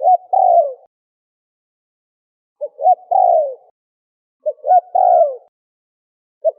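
Spotted dove (terkukur) cooing: a repeated phrase of two short notes and a longer, falling coo, three phrases about two seconds apart, with a fourth starting at the very end.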